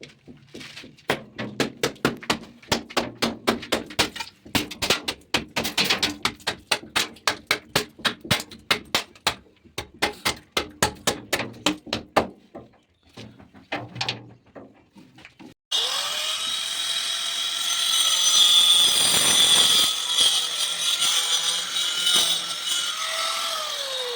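Quick, rhythmic strokes of a hand tool, about three a second, for some twelve seconds. After a short pause an electric power tool starts abruptly and runs loudly to the end, its motor pitch sagging and recovering as it works under load.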